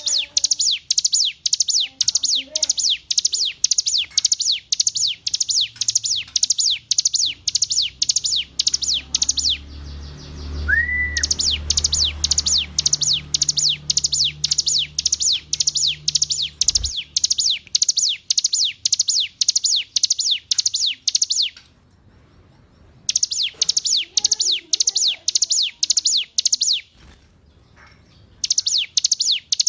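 Ciblek gunung (a prinia) singing a fast run of high, sharp, evenly repeated notes, about three a second, in long bursts with short pauses between them. A low hum sits underneath for a few seconds in the middle.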